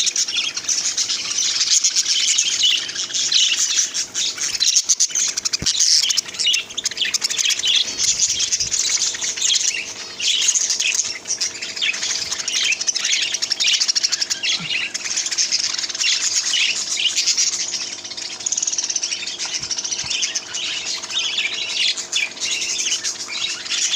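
A mixed flock of caged pet birds (lovebirds, cockatiels, finches and budgerigars) chirping and chattering nonstop, with many short, high, overlapping calls.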